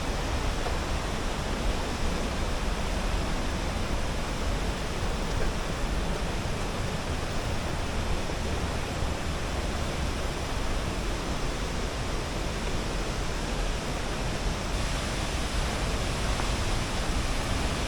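Waterfall rushing steadily, an even wash of falling water heavy in the low end, unchanging throughout.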